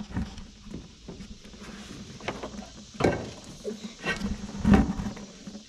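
Scattered knocks and clunks of a bucket and tools being handled while getting under a tractor to drain transmission oil, over a faint low steady hum.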